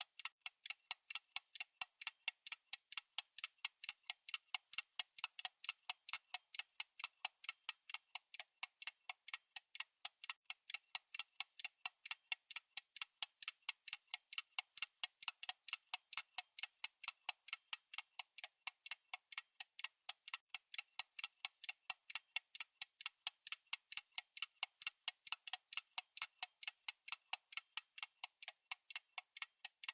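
Countdown timer's ticking sound: fast, even, crisp ticks, several a second, high and thin with nothing low in them.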